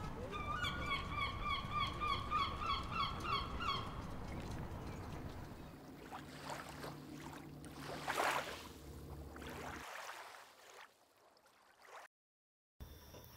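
A bird calling in a quick run of harsh, repeated notes, about four a second, for three or four seconds. Low outdoor noise follows, with a short rush of noise about eight seconds in.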